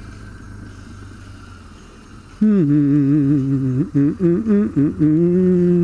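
A man humming a tune, with held, wavering notes starting about two and a half seconds in and becoming the loudest sound. Under it, the low steady running of a BMW R1200 GS Adventure's boxer-twin engine as it is ridden.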